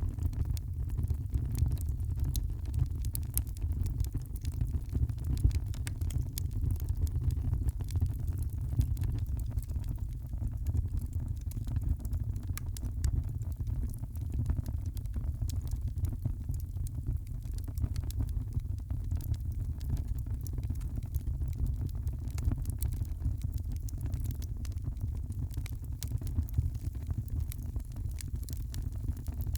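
Wood fire crackling in a fireplace: many small sharp pops and snaps over a steady low rumble from the flames.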